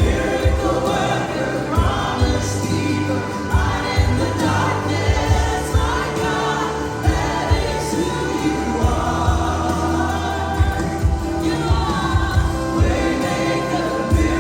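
Congregational worship music: a group of voices singing a gospel worship song with a band, bass and drums keeping a steady beat.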